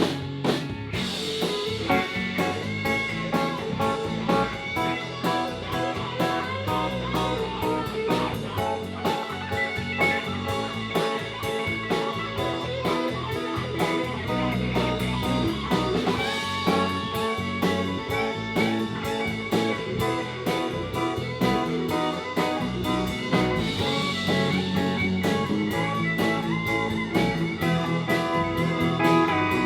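Live band playing an instrumental break: guitar lead with a steady drum beat.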